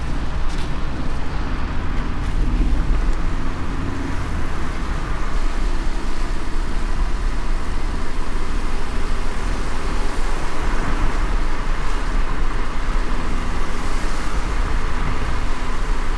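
Car driving in light rain: a steady low road and engine rumble under an even hiss of rain and wet tyres.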